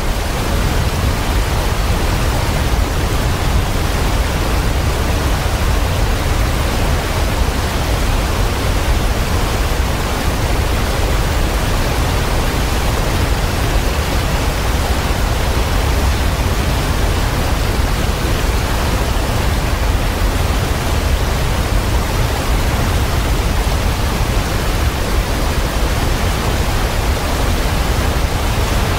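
Waterfall: a loud, steady, even rush of falling water, heaviest in the low end, cutting in suddenly at the start and holding unchanged throughout.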